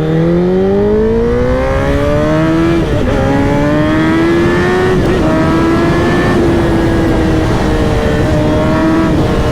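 Inline-four engine of a 2021 Honda CBR1000RR-R sportbike accelerating hard. Its pitch climbs steadily, drops at an upshift about three seconds in, climbs again, then holds near steady from about five seconds on, with wind rushing over the helmet-mounted microphone.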